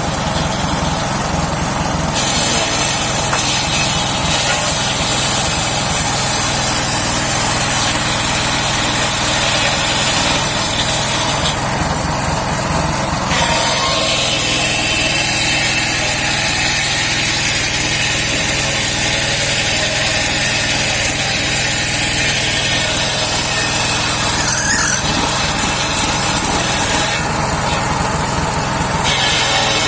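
Engine-driven homemade circular sawmill running steadily, its engine note low and even under a high whine from the saw that drops away briefly three times.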